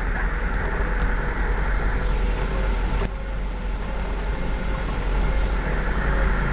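A vehicle engine running steadily with a constant low rumble and road noise, dipping briefly about three seconds in.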